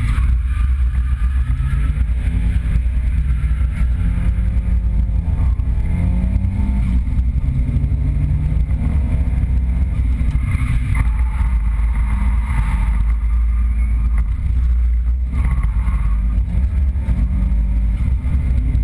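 Nissan 200SX drift car's engine heard from inside the cabin, running hard with its revs climbing and dropping again and again under a heavy low drone.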